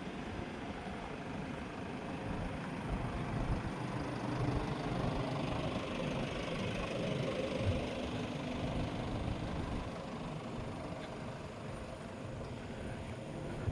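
A motor vehicle's engine running near the road, growing somewhat louder in the middle and easing off again toward the end.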